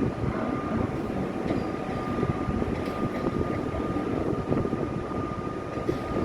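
Electric suburban train running: a dense, steady low noise with a thin steady whine above it.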